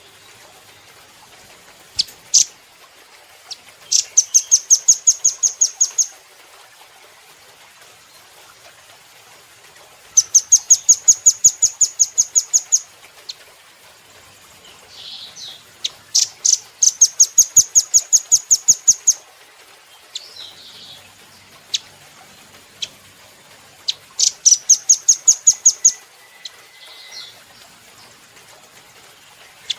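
Velvet-fronted nuthatch (rambatan) singing: four fast, high trills of evenly repeated notes, each lasting two to three seconds, with single sharp call notes between them.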